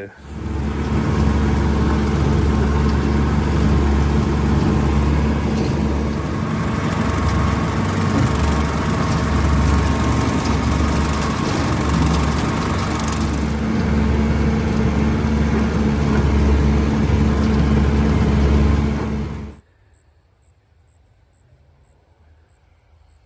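Farm tractor engine running steadily, then cutting off sharply about three-quarters of the way through, leaving a faint high insect buzz.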